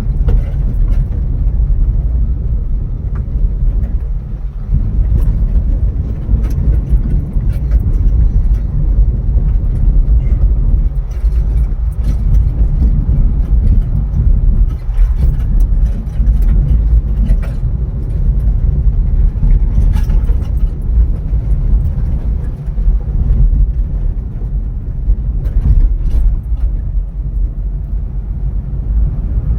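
A car being driven: a steady low rumble of engine and road noise, with scattered light clicks and knocks.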